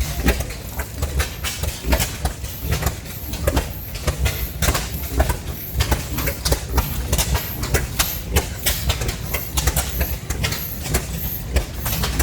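Several old stationary oil field engines running together: a low rumble with slow, uneven exhaust pops and mechanical clatter, a few sharp strikes each second.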